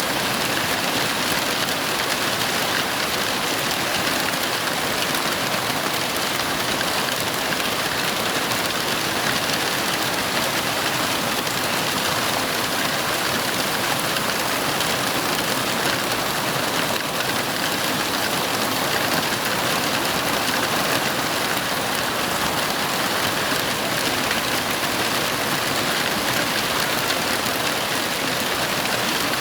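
Heavy rain falling steadily, an even hiss without breaks or thunderclaps.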